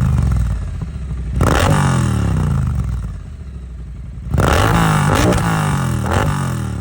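Triumph Bonneville T120 parallel-twin engine revved through British Customs Predator Pro Shorty exhausts with a cat-delete X-pipe. Sharp throttle blips come about a second and a half in and again at four and a half seconds, with two smaller blips after, each falling back toward idle. The sound is a nice little rasp, really throaty.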